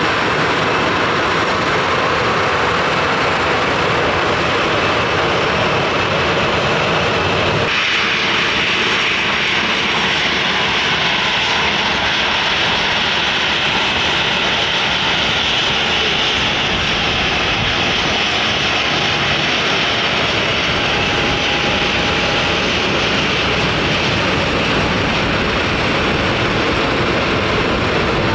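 Jet airliner engines running loud and close, a continuous rush of noise with a high whine. The sound changes abruptly about eight seconds in, then carries on loud and steady.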